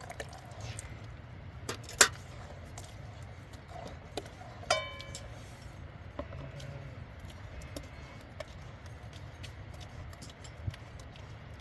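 Scattered light clicks and knocks of small hard objects being handled, with one short ringing clink near the middle, over a steady low rumble.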